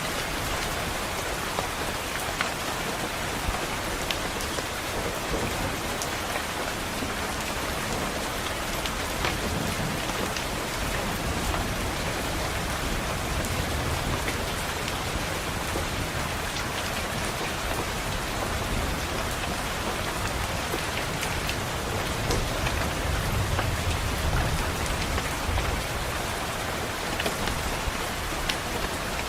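Steady rain falling, with scattered sharp drop ticks, and low rumbles of thunder around the middle and, strongest, about three-quarters through.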